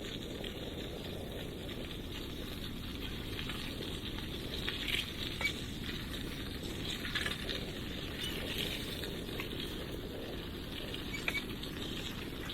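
Bicycle rolling along a path: steady tyre and wind noise with scattered small clicks and ticks, a few of them sharper around the middle and near the end.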